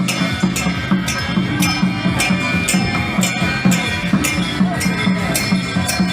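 Temple-procession percussion band playing: a drum beating about four times a second under metal clashes about twice a second, with a steady high ringing.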